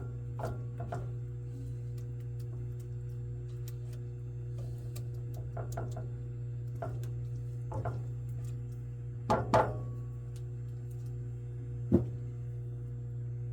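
Cooking in a pan: scattered knocks and clinks of a utensil against the pan, loudest as a quick cluster about nine and a half seconds in and one sharp knock near the end, over a steady low hum.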